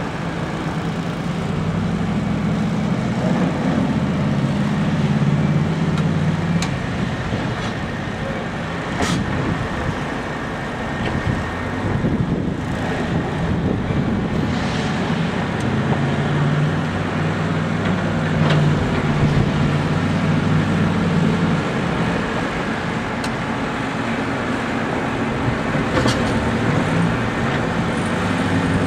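Engine of a snow-clearing machine running continuously, its hum swelling and easing as the load changes, with a few sharp clicks.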